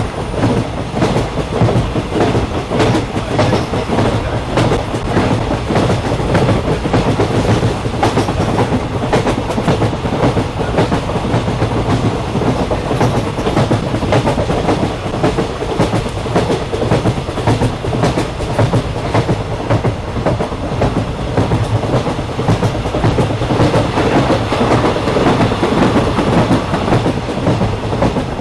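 Passenger train running along the track, heard from on board: a steady rumble with the clickety-clack of the wheels over the rails.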